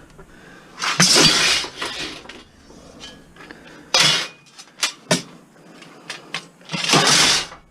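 Hard objects clattering and clinking as they are handled: three loud rattling bursts of about a second each, with a few sharp knocks between them.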